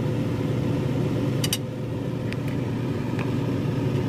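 A steady low hum with a few light clicks: a close pair about one and a half seconds in, then single ones later.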